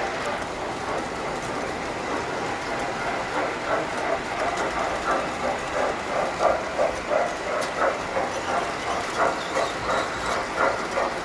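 Tinplate model train running on its track: a steady running noise that turns into a rhythmic beat of about three pulses a second, growing stronger a few seconds in.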